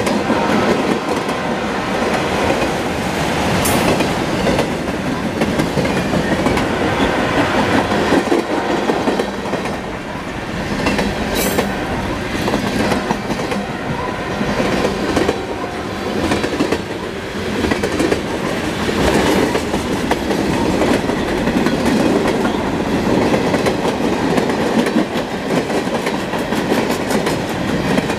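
Freight cars rolling past on steel wheels: a steady loud rumble and clatter of wheels over the rail joints. Twice, about 4 and 11 seconds in, there is a brief sharp metallic sound.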